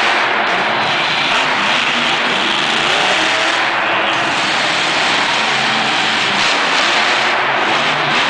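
Grave Digger monster truck's supercharged V8 engine running hard, loud and continuous, its pitch rising and falling as the throttle is worked during a freestyle run.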